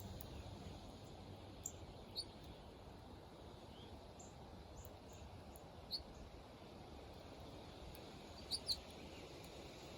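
Wild birds chirping: short, high chirps scattered every second or two, with a quick pair near the end the loudest, over a faint steady background noise.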